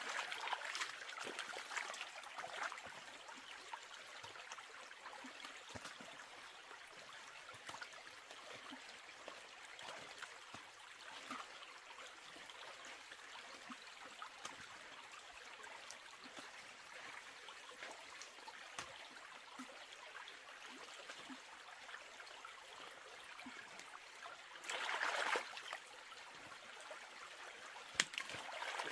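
Water trickling and running steadily, with scattered small knocks and a louder rush of water about 25 seconds in.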